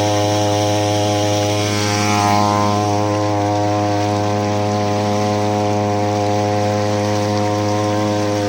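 Small 3 hp outboard motor running steadily under way, with a slight swell in level about two seconds in.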